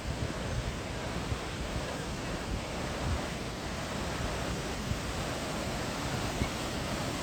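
Steady rushing outdoor noise, with wind buffeting the microphone in irregular low thumps.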